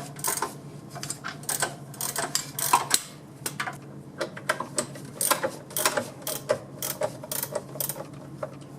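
A 700R4 transmission being lowered on a transmission jack: a run of irregular metallic clicks and clanks, a few a second, over a steady low hum.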